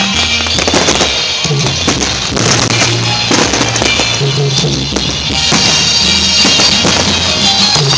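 Fireworks going off in quick succession, sharp bangs and crackling, over loud music with a steady bass line.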